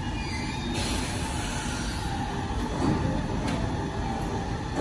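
An electric commuter train standing at a station platform with its doors open: a steady rumble and hum of its equipment, with one sharp click about three and a half seconds in.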